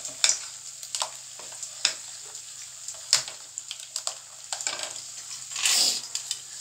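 Malpua batter frying in oil in a steel kadhai: steady sizzling with sharp crackles and pops throughout, and a louder surge of sizzling near the end as more batter goes into the hot oil.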